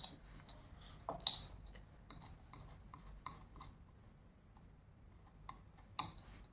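Small clicks, taps and rubbing as the parts of an LED bulb are handled during repair, with louder clicks about a second in and again near the end.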